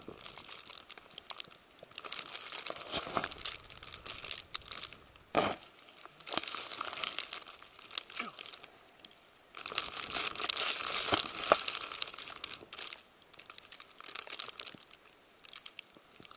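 Crunching and crackling of steps through deep, fresh snow, in several stretches of a few seconds each with short quieter pauses between them.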